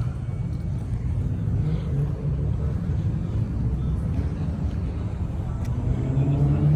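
A car engine running with a steady low rumble, growing louder and slightly higher about six seconds in as it revs or pulls closer.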